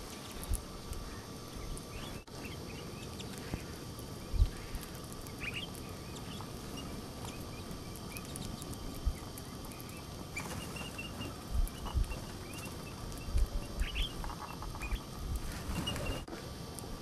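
Birds giving short chirping calls, scattered and more frequent in the second half, with occasional brief low thumps.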